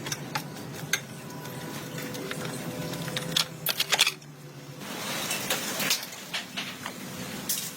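Metal tools and parts clinking and tapping, many short sharp clicks with a quick cluster of louder ones about halfway through, over a faint steady hum.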